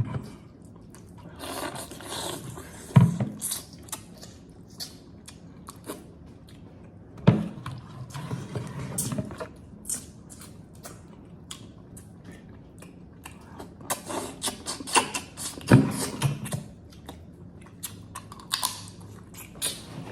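Close-up eating of boiled crab: chewing and mouth sounds mixed with crackling and clicking as the shells are broken and the meat picked out, with a few louder knocks.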